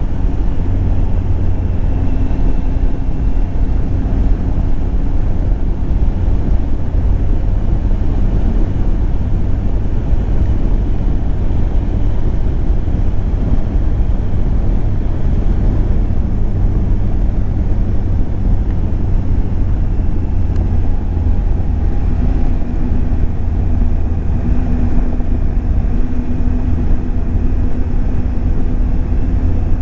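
Triumph Tiger 800 XCX's three-cylinder engine running as the motorcycle rides along, under a steady rush of wind and road noise. The engine note shifts slightly a few times.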